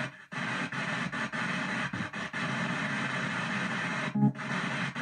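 Ghost box (spirit box) sweeping through radio stations: choppy static broken up several times a second as it scans. There is a short dropout at the start and a brief snatch of broadcast sound about four seconds in.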